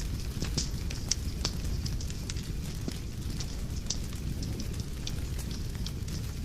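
Wood fire burning in a fireplace, a steady low rumble of flames with frequent irregular crackles and sharp pops.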